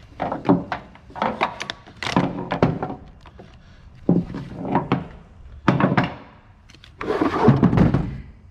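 Irregular knocks, thumps and clatter, with a longer scraping, rustling stretch about seven seconds in.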